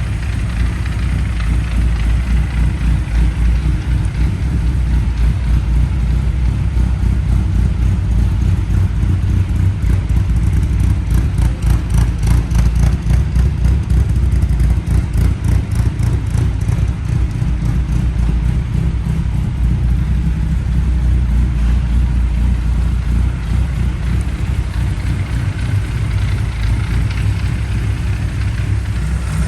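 1978 Mini Clubman Estate's A-series four-cylinder engine idling steadily.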